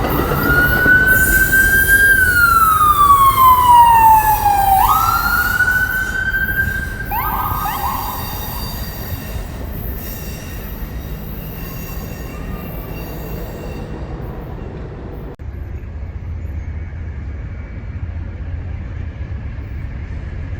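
Emergency vehicle siren wailing, rising and slowly falling in pitch twice before cutting off about 8 s in, over the steady rumble of a passing train that fades.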